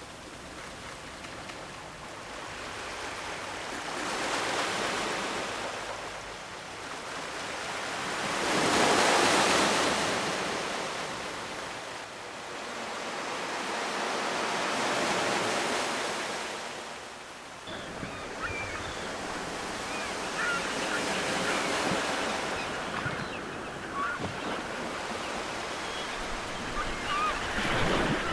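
Ocean surf: waves washing in and drawing back in slow swells, the loudest about nine seconds in. From about eighteen seconds in the wash turns steadier, and short bird calls come through it.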